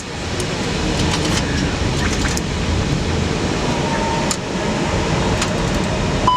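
Steady cockpit noise of an Airbus A320 in flight on approach: airflow and air-conditioning running, with a few faint clicks and a short high tone near the end.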